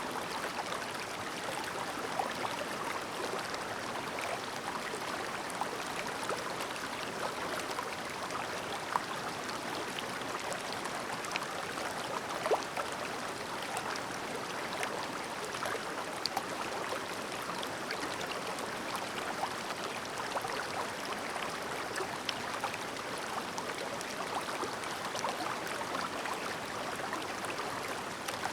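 Clear mountain stream babbling steadily, with small splashes and gurgles scattered through the rush of water.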